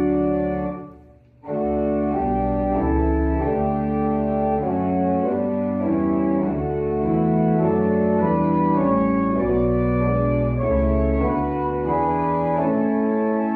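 Organ playing a slow hymn-like piece in sustained chords that change about once a second. It breaks off briefly about a second in, then carries on.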